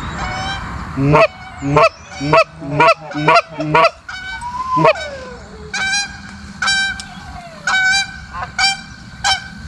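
Canada goose honks and clucks: a quick run of short clucks about twice a second, then longer honks spaced about a second apart.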